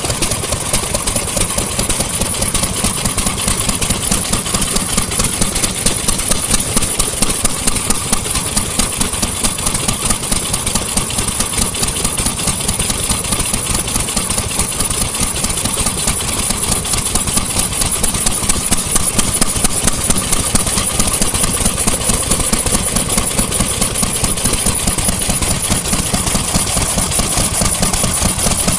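Vintage engine running steadily, its firing strokes beating evenly with no change in speed.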